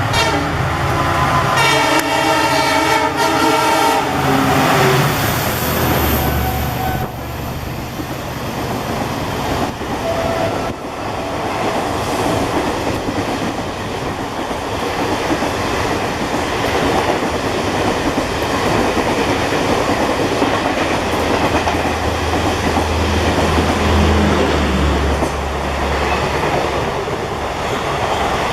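Indian Railways locomotive horns sounding a chord of several tones in blasts that stop about four seconds in. After that comes the loud, steady rumble and wheel clatter of express trains running through the station at speed, with a deeper swell of rumble near the end.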